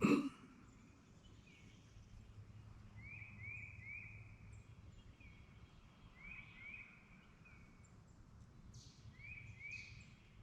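A wild songbird calling in short phrases of two or three quick rising notes, repeated every few seconds. A sharp knock sounds right at the start.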